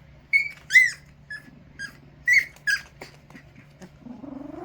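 Puppies yipping in a series of about six short, high-pitched, arching cries, roughly two a second. Near the end a lower, longer rising howl begins.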